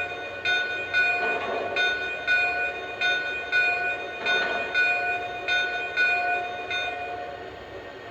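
Locomotive bell from a Lionel Legacy model steam locomotive's sound system, its fifth bell tone, ringing steadily about twice a second and stopping about seven seconds in.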